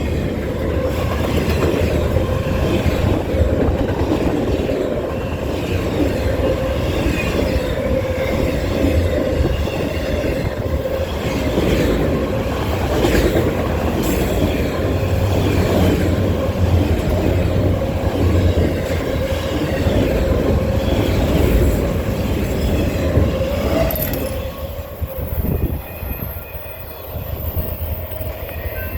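Norfolk Southern freight train cars rolling past: a continuous rumble of wheels on rail joints with a steady squeal running through it. The noise falls away about 24 seconds in, as the end of the train passes.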